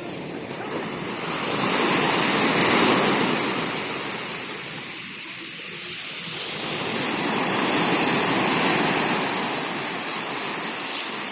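Mediterranean sea waves washing onto the shore, a steady rush that swells twice, first about two to three seconds in and again about eight to nine seconds in.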